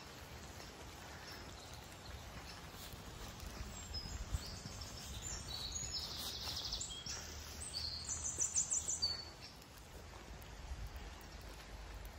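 A small songbird singing: short high chirps from about four seconds in, then a loud fast trill near the end, over steady low background noise.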